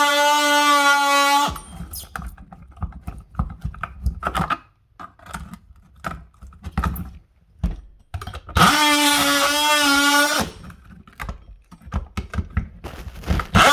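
A power saw running in short bursts with a steady, high whine: about a second and a half at the start and about two seconds past the middle. Between the bursts there are clicks and knocks of handling as it cuts something in two.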